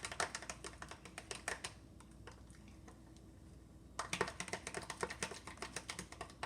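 Rapid, irregular clicking and tapping of a spoon against a small cup while a soap-and-salt slime mixture is stirred fast. The clicking pauses for about two seconds midway, then starts again.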